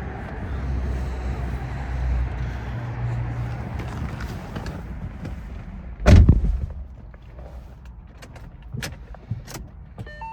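A nearby car's engine rumbling low and steady, dying away about five seconds in. About six seconds in comes one loud thud, a car door shutting, followed by a few faint clicks.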